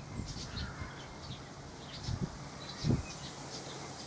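Small birds chirping in short high notes over a low background rumble, with two dull low thumps about two and three seconds in.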